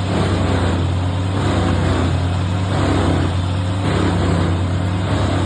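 Vermeer WC2300XL wood chipper running under load, its engine holding a steady low drone while eucalyptus logs are chewed up in the drum, the grinding noise swelling and easing several times.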